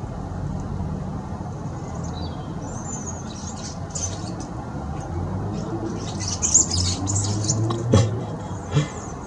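Garden birds chirping and squawking in scattered bursts as they squabble over food at a feeder, over a steady low rumble. A sharp click sounds near the end.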